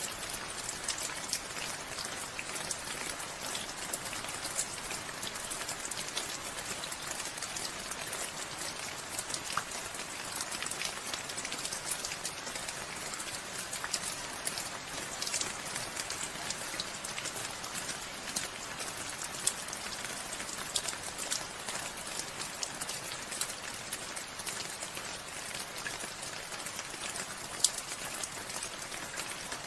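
Steady rain falling, a continuous hiss dotted with many sharp drop impacts.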